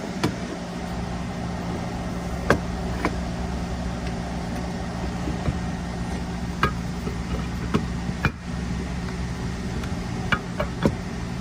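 Scattered light clicks and knocks as parts of an automatic transmission valve body are handled and fitted together, over a steady low background hum.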